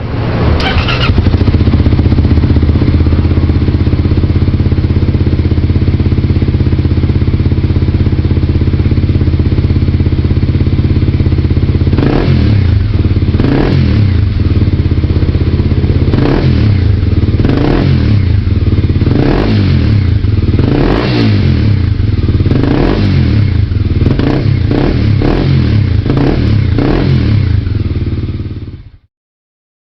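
An engine running steadily; from about halfway it surges again and again in short bursts, roughly once a second.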